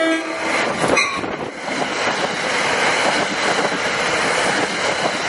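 A passenger train's horn chord cuts off about half a second in. The train then rushes past close by, with a loud, steady rumble of wheels on rail and faint wheel squeal.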